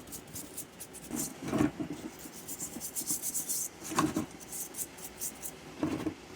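Greasy front-axle part being scrubbed by hand in a bucket of petrol, with irregular rubbing and scraping strokes, the strongest about a second and a half in, around four seconds in and near the end.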